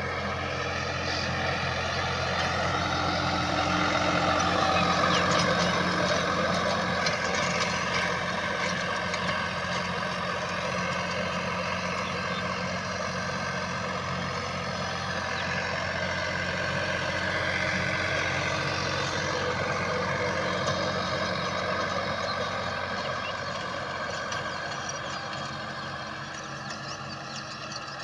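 Tractor engine running under load as it pulls a rotavator through dry soil: a steady drone whose pitch drifts slowly up and down, loudest around five seconds in.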